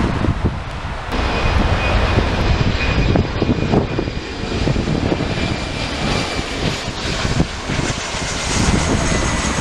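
Wide-body jet airliner's engines passing close by: a loud, steady rushing noise with a faint high whine running through it.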